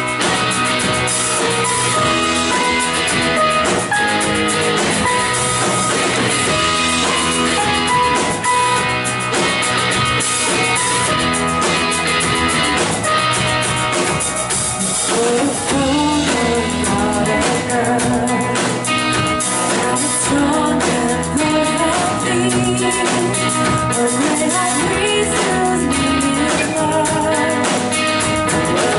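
Live worship band music: strummed guitar and drum kit playing steadily, with a voice singing over it in the second half.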